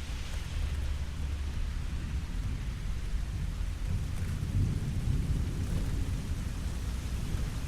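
Steady rain falling, a constant hiss over a deep low rumble that swells briefly about halfway through.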